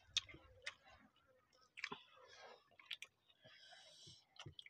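Faint eating sounds of people eating rice with their hands: scattered, separate wet mouth clicks and chewing.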